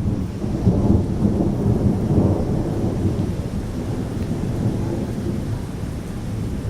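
Thunder rumbling low and long during a strong thunderstorm, swelling to its loudest about one to two and a half seconds in, then rolling on more softly.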